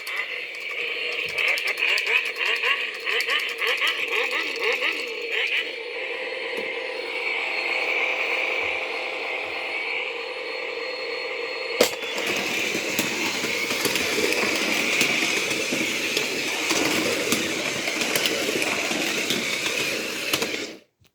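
Shake N Go toy race cars playing their electronic engine and race sound effects through small built-in speakers. Quick plastic rattling and clicking from the toys comes through in the first few seconds, and a sharp click about halfway through. The sound cuts off abruptly near the end.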